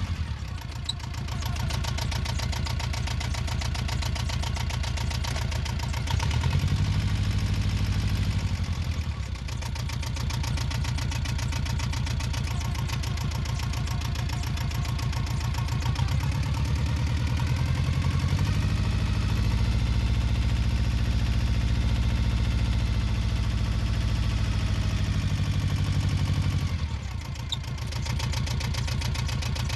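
Yanmar 2GM two-cylinder marine diesel engine running with a rapid, even chugging, its revs raised and lowered several times: up about 6 seconds in, back down about 9 seconds in, up again from about 16 seconds and held, then dropping back near the end. It is being run to bring on the intermittent knocking and violent shaking this engine is known for.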